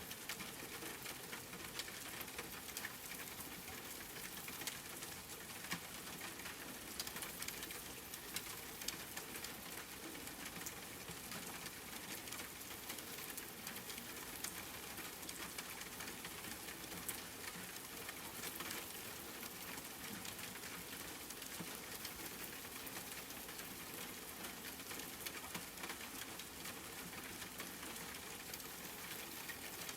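Steady rain with close, scattered drops pattering on a surface.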